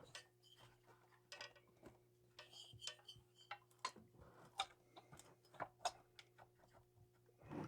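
Faint, irregular clicks and light taps of tools and metal saw parts being handled during a chainsaw teardown, over a low steady hum.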